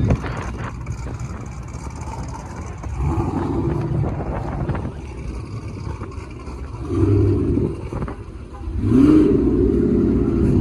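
Car engines running at idle with short revs; the loudest rev comes about nine seconds in and rises in pitch.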